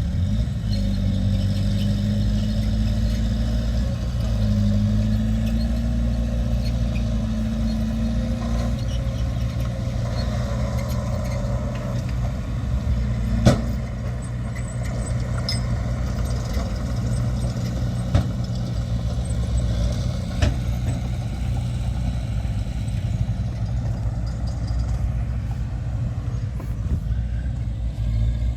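Heavy diesel earthmoving machinery running steadily, its engine note wavering up and down for the first several seconds. Three short, sharp knocks come around the middle.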